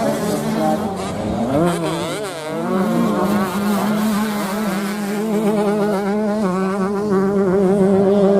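Several 125 cc motocross bikes' engines revving, their pitch rising and falling as the throttles open and close, with one engine holding a steady note from about three seconds in.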